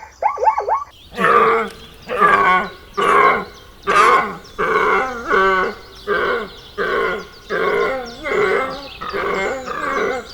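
Quick repeated chirping calls for about the first second, then, after an abrupt change, an animal calling over and over, a little more than once a second, each call a short pitched, wavering cry.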